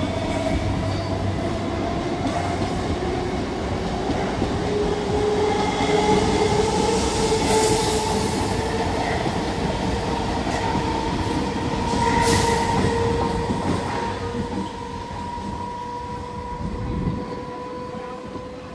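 Passenger train running through the station without stopping: steady wheel-on-rail running noise with a steady whine and two brief hisses. It fades in the last few seconds as the last coaches pass and draw away.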